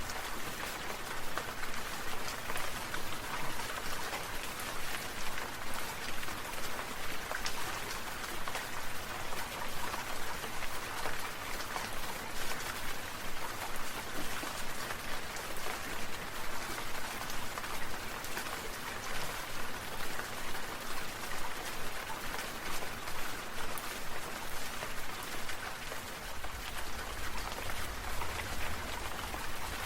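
Steady rain falling, a continuous patter of many separate drops. A low rumble joins near the end.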